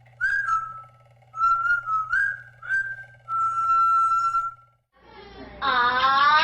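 Pet parrot whistling: a few short clear notes, then one long held note. After a brief break, a louder sound rises steadily in pitch near the end.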